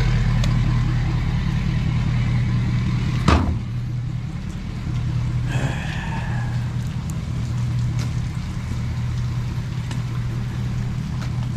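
Truck engine idling steadily, with a single sharp knock about three seconds in and a brief higher-pitched squeal around six seconds.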